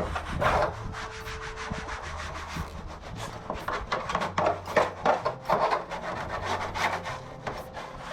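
A Shiba Inu's paws scratching and digging hard at its fabric dog bed: rough scraping strokes, a few per second and irregular, over a faint steady low hum.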